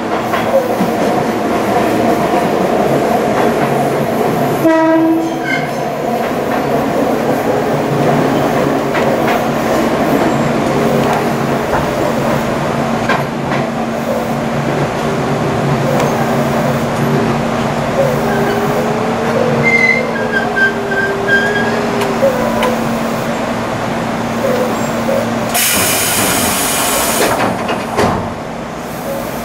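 Tobu Railway electric commuter train running, heard from the driver's cab: steady rail and motor noise with a constant hum. There is a short pitched tone about five seconds in, and a loud hissing squeal lasting about two seconds near the end.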